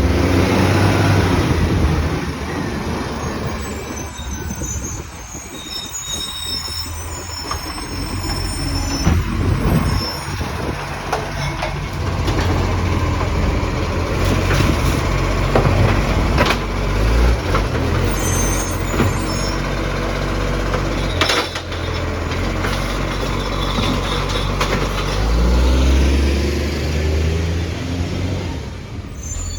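Garbage truck on a recycling collection: the diesel engine runs and revs up near the end. High squeals and several sharp knocks come from the truck and the bins as it works.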